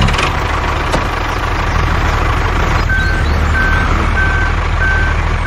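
Truck engine running steadily. Its reversing alarm starts beeping about halfway through, one steady-pitched beep roughly every two-thirds of a second.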